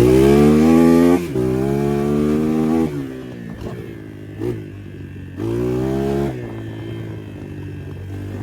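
250 cc dirt bike engine revving hard: its pitch climbs sharply, drops briefly about a second in and holds high until about three seconds. Then the throttle closes, there is a short blip, another burst of revs comes near six seconds, and the engine settles to a low steady running note.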